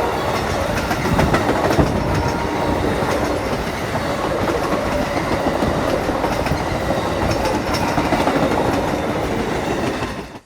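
A train rolling past close by, its cars and wheels running steadily along the track; the sound cuts off suddenly near the end.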